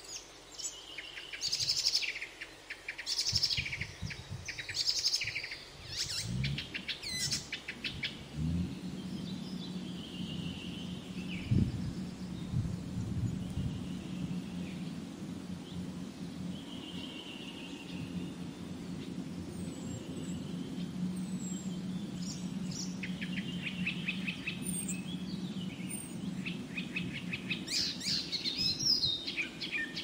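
Birds chirping in bursts of rapid, high, trilled notes, loudest in the first few seconds and again near the end, with fainter calls in between. A steady low hum sets in about a third of the way through and continues under the calls.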